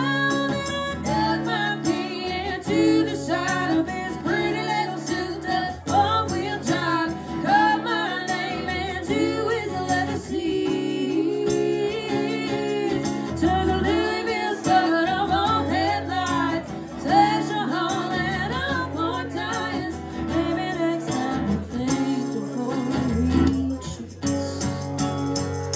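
Live band music: guitar with a wavering melody line over sustained bass notes.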